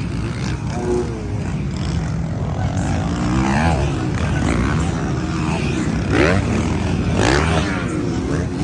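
Several motocross bikes racing on the track, their engines overlapping and rising and falling in pitch as they rev. There are sharp rising revs about six seconds in and again about seven seconds in.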